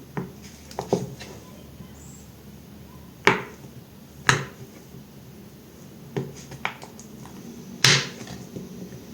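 Knife cutting through bars of soap: a series of short, crisp cuts every second or so, a few of them much sharper and louder than the rest.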